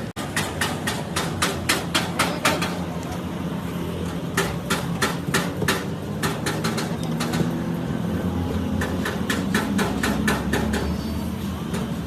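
Rapid hammer blows on metal in three runs of several strikes a second, with short pauses between, over a steady low hum.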